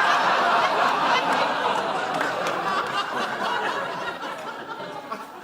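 Studio audience laughing, dying away gradually.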